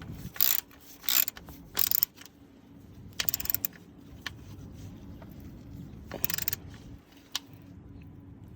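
Hand ratchet clicking in short bursts, about five strokes of a few tenths of a second each, as bolts are tightened down. A faint steady hum runs underneath.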